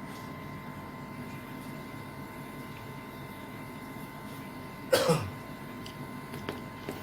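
A person coughs once, sharply, about five seconds in, over a steady background hum with a faint thin high tone. A couple of faint clicks follow near the end.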